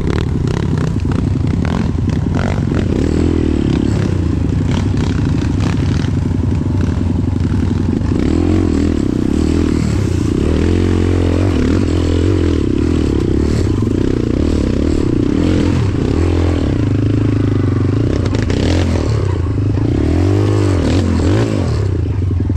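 Off-road trail motorcycle engine running under way, its pitch rising and falling repeatedly as the throttle is opened and closed, with clattering and scraping over rough ground.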